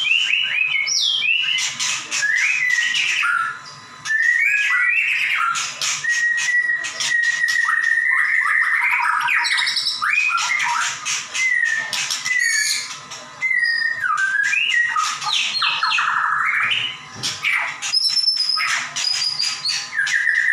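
White-rumped shama singing a loud, unbroken song of clear whistles, sliding notes and rapid trills, with short breaks about 3.5 and 13 seconds in.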